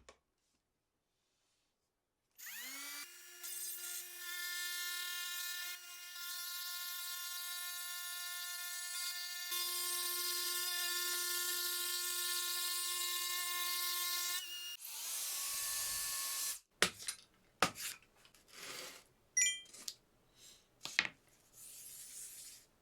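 Handheld trim router switched on, its whine rising quickly to speed, then running steadily for about twelve seconds, with a change in the cutting noise partway through, before it is switched off. Several sharp clicks and knocks follow.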